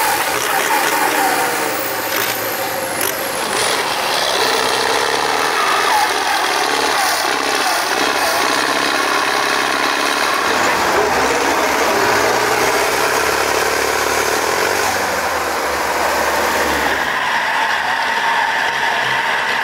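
Farm tractor's diesel engine running hard under load in a tractor pull, with the pitch wavering as it pulls.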